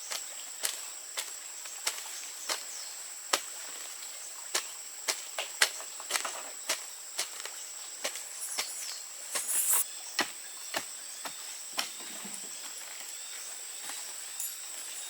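Irregular sharp knocks, about one or two a second, over a steady high-pitched insect drone.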